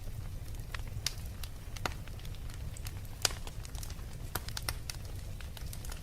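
Fireplace fire crackling: irregular sharp pops and snaps over a low, steady rumble, with the loudest pop about three seconds in.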